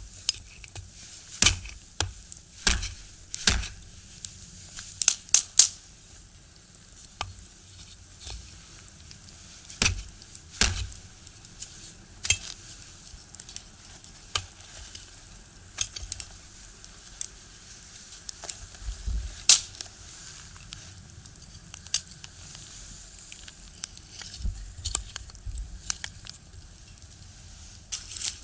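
Firewood burning in a box stove, crackling and popping with irregular sharp snaps over a faint steady hiss.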